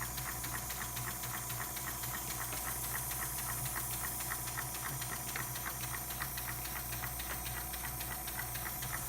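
Small tankless airbrush air compressor running with a steady hum, alongside a model beam engine running on its compressed air at about 2.5 psi, with a light hiss and rapid, regular ticking.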